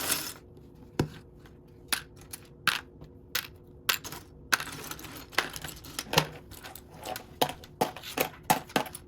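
Loose plastic Lego pieces clicking and clattering as a hand sifts through a pile of them; irregular clicks, sparse at first and coming faster from about halfway.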